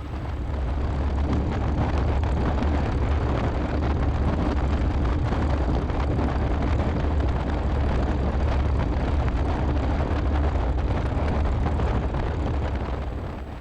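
Cessna 172SP's Lycoming IO-360 four-cylinder engine and propeller held at raised power, steady for about ten seconds. It swells in the first second or two and falls back near the end, typical of a pre-takeoff engine run-up.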